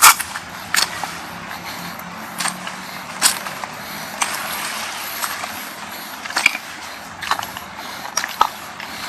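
Beach ambience: a steady hiss of waves and breeze, broken by about ten sharp, irregular knocks and clicks, the loudest at the very start.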